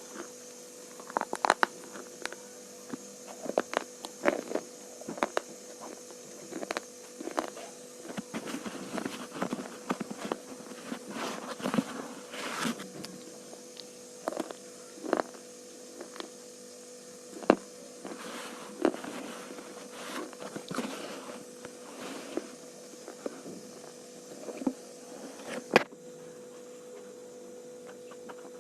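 Slate pencils being bitten and chewed: irregular sharp crunches and clicks, some in quick clusters, over a steady low hum.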